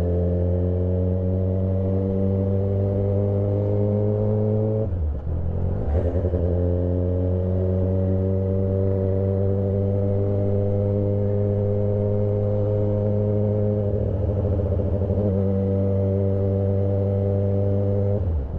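2008 Yamaha R6 inline-four engine under way through a full stainless exhaust system with an SC Project muffler, pulling at low revs in a high gear. Its note climbs slowly, with brief breaks about five seconds in and near the end.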